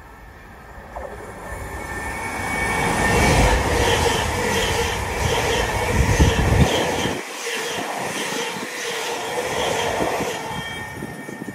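Two coupled Class 720 Aventra electric multiple units running through the station along the platform. The rumble builds, peaks with a regular rhythm of wheel clicks as the carriages go by, loses its deep rumble about two-thirds of the way in, and fades as the tail passes.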